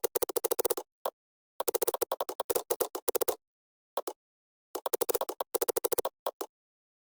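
Computer keyboard typing in quick bursts of keystrokes, about ten a second, with short pauses between the runs.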